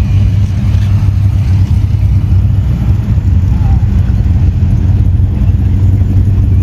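Classic car engine running with a loud, steady low rumble as a car drives out.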